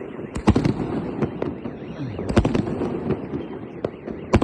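Aerial firework shells bursting overhead: three loud bangs, about half a second in, near the middle and at the end, over steady crackling and popping from the display.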